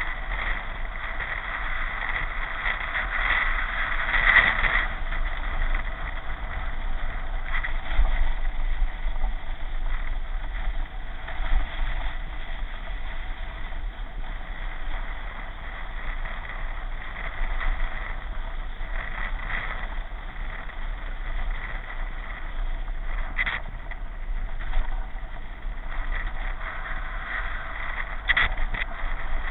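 Steady rushing noise of a vehicle on the move, with a constant low rumble and a few brief louder peaks.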